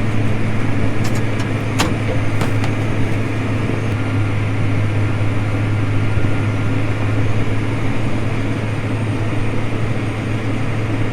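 Tractor engine running steadily under load while pulling a tillage digger, heard from inside the cab as an even low drone. A few light clicks sound about two seconds in.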